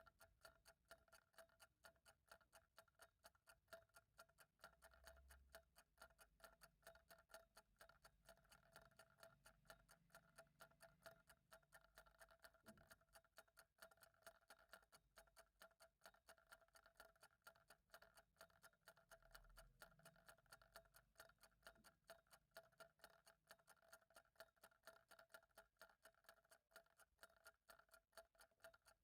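Faint, steady ticking of a clock, evenly spaced clicks throughout, with a faint steady hum underneath.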